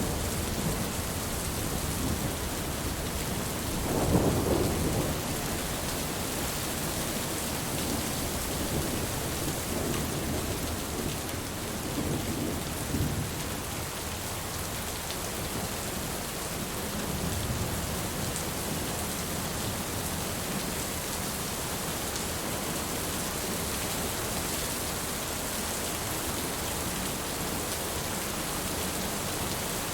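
Heavy rain falling steadily with a hiss, with distant thunder rumbling low, most strongly about four seconds in and more faintly a few times after.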